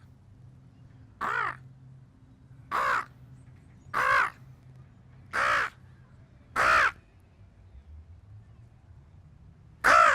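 Crow-like cawing: six separate harsh caws of about half a second each, coming every second or so, with a longer pause before a sixth, loudest caw near the end.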